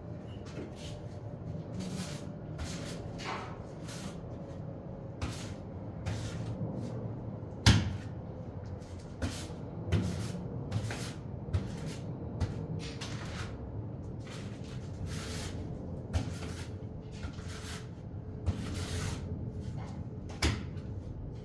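Hand tiling work: a run of short scraping strokes, like a trowel or scraper worked over tile or mortar, with a few sharp knocks, the loudest about eight seconds in.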